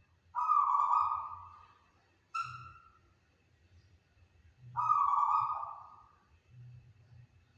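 Zebra dove (perkutut) cooing: three calls a couple of seconds apart, the middle one short.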